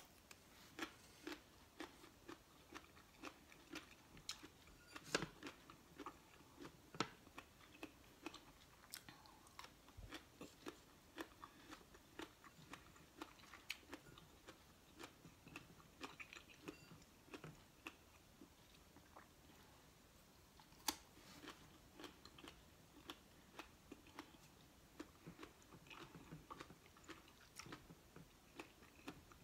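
Close-up biting and chewing of mango slices: a run of small crunching, wet clicks all the way through, with louder bites about five seconds in and about twenty-one seconds in.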